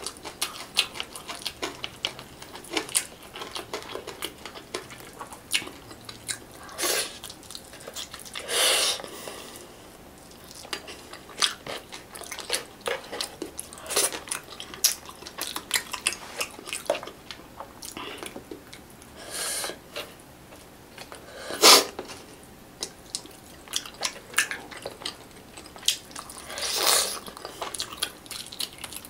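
Close-miked eating sounds of a person eating fish by hand: steady chewing and small wet mouth clicks. A few louder smacks stand out, the loudest about two-thirds of the way through.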